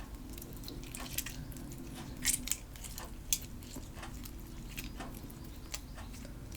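Homemade glue-and-baking-soda slime being kneaded and squeezed by hand, making scattered small sticky clicks and squelches.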